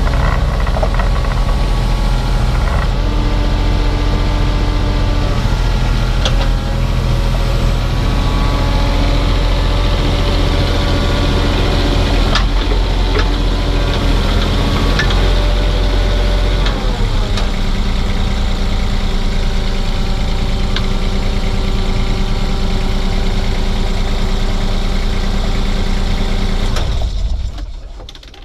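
Diesel engine of a piece of earthmoving machinery running, its engine speed shifting a few times and dropping about two-thirds of the way through, with occasional metallic clicks. The engine sound dies away near the end.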